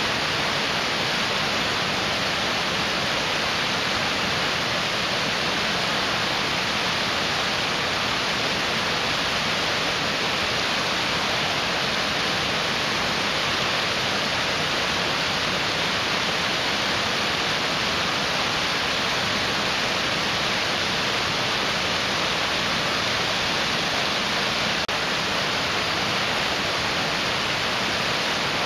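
Mountain stream rushing over rocks: a steady, unbroken hiss of fast-flowing water.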